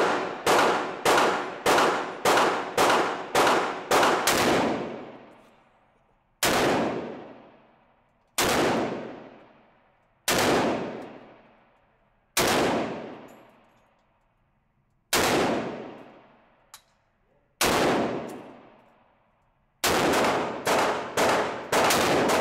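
AR-15 rifle fired semi-automatically: a quick string of about nine shots over the first four seconds, then six single shots a couple of seconds apart, then another fast string near the end. Each shot leaves a long echoing decay.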